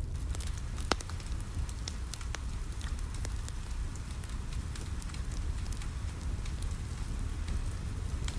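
Wood fire crackling in a fireplace, with scattered sharp pops (the strongest about a second in), over a steady low rumble and the even hiss of rain on a window.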